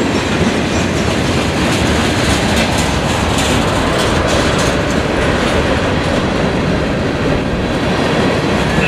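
Freight cars of a CSX mixed manifest train rolling past close by: loud, steady wheel-on-rail noise with clickety-clack over the rail joints.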